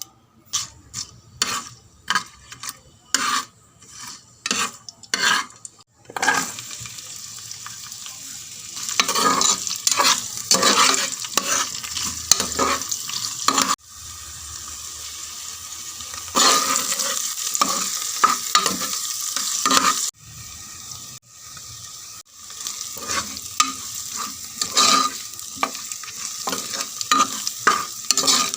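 A spatula scraping and stirring in a cooking pot: separate scraping strokes at first, then, about six seconds in, a steady frying sizzle begins, with the stirring strokes going on over it.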